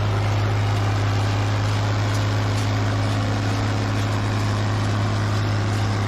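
Tractor engine running steadily under load, driving a round baler, with a strong, even low hum.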